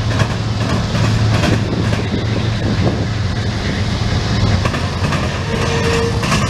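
Freight cars of a long Norfolk Southern train rolling past, a steady rumble with wheels clicking over the rail joints.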